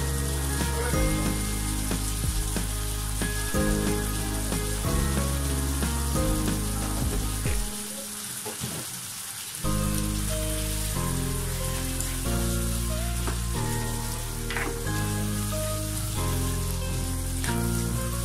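Beef pieces in spice paste sizzling in oil in a nonstick wok, a steady hiss with small crackles, stirred with a spatula near the end. Background music with low held notes runs underneath.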